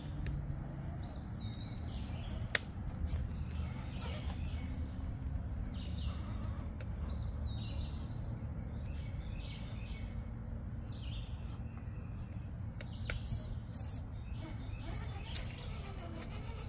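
A songbird singing short repeated phrases every second or two, over a steady low rumble, with one sharp click about two and a half seconds in.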